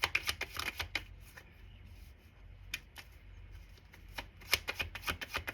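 A deck of tarot cards being shuffled by hand: a quick run of crisp card clicks, a quieter pause with a single click, then another fast run near the end.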